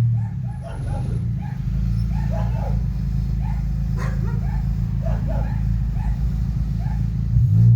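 A dog barking and yipping repeatedly, short calls coming every half second or so, over a loud, continuous deep bass rumble.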